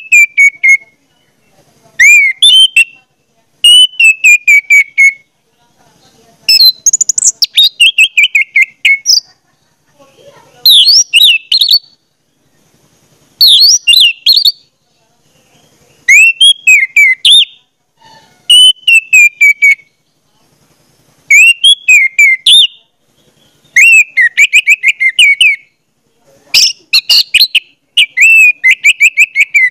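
A songbird singing: short, loud phrases of rapid high chirps and whistles, about a dozen of them, each one to three seconds long with a pause of about a second between.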